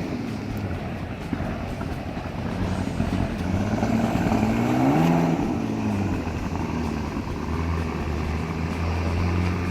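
Car engine running, its pitch climbing for a couple of seconds and then dropping away, then settling into a steadier low drone near the end.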